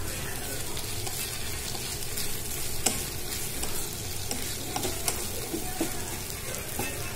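Sliced onions, green chillies and curry leaves sizzling in oil in a nonstick frying pan as a spatula stirs them, with a few sharp taps and scrapes of the spatula against the pan, the sharpest about three seconds in.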